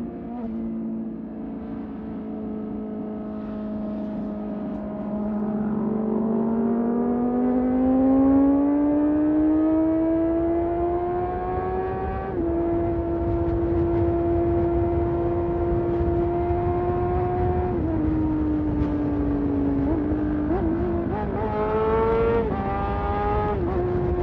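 Onboard sound of a Honda CBR600RR's inline-four engine under way, with wind rumble on the microphone. The engine note climbs smoothly as the bike accelerates about a quarter of the way in, then holds steady. It dips briefly about three-quarters of the way through and rises again near the end.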